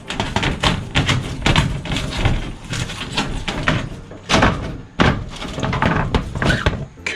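Irregular knocks, bangs and clatter of hands-on construction work, coming in quick uneven clusters.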